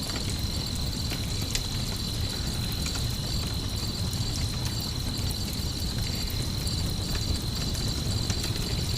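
Campfire crackling with scattered sharp pops, over a low steady rumble, while crickets chirp in a continuous high trill.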